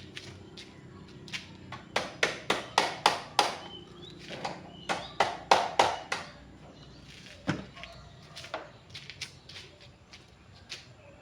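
Sharp taps or knocks: two quick runs of about four a second, then a few scattered single taps.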